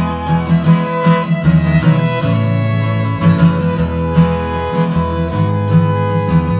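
Instrumental break in an Americana song: a violin plays held notes over a strummed acoustic guitar and a bass that moves between notes about once a second, with no singing.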